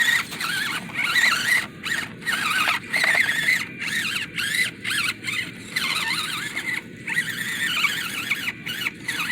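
Electric motor and drivetrain of a 1/24-scale RC crawler truck whining as it crawls over rocks, the pitch rising and falling with the throttle and cutting out briefly several times as the driver stops and starts.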